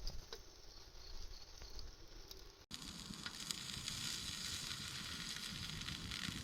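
Sausages sizzling as they grill over a wood fire, with a steady hiss and scattered small pops. The sizzle is faint at first and louder after an abrupt break partway through.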